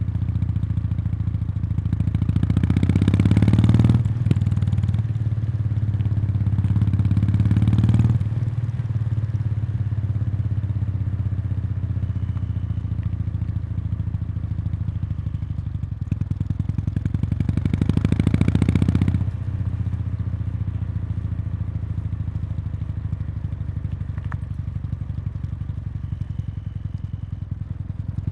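Kawasaki Meguro K3's 773 cc air-cooled parallel-twin running through its stock muffler, heard close to the outlet while riding: a steady exhaust note that swells three times as the throttle opens, each surge cut off suddenly as the throttle is eased.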